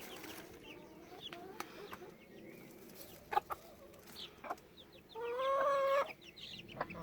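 Chickens clucking softly with scattered short calls, then one louder, drawn-out call about five seconds in that lasts nearly a second.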